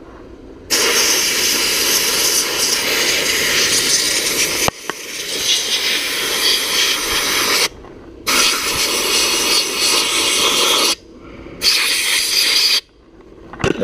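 Compressed-air Harbor Freight sandblast gun hissing as it sprays glass bead onto an oxidized Kawasaki KZ400 engine. It runs in three long bursts with short pauses between them, the first starting about a second in.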